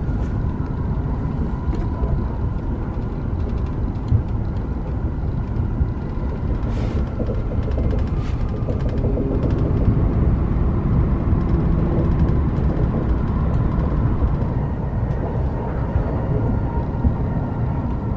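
Steady low rumble of a Tohoku Shinkansen bullet train running, heard inside the passenger cabin. A few soft clicks and rustles come from a cloth slipper bag being handled about seven to nine seconds in.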